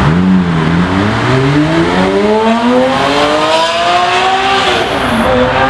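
Singer DLS's air-cooled, naturally aspirated flat-six under full acceleration: the engine note climbs steadily through one long gear, drops at an upshift near the end and starts climbing again.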